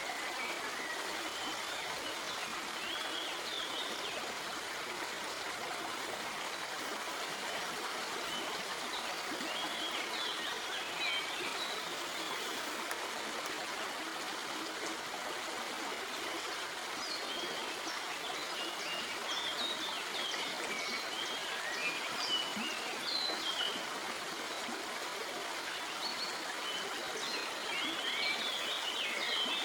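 A stream runs steadily over rocks, making an even rushing and babbling. Birds chirp high and briefly now and then above it.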